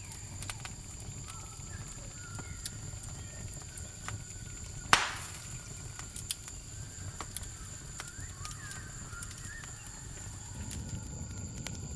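Campfire crackling, with scattered small pops and one sharp, loud pop about five seconds in, over a low rumble of burning. A steady high-pitched cricket trill runs underneath.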